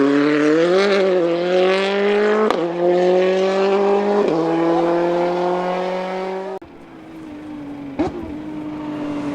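Rally car engine at high revs under hard acceleration, its pitch climbing slowly, with brief breaks about two and a half and four seconds in. The sound cuts off abruptly near the end. A quieter car engine follows, with a sharp crack partway through.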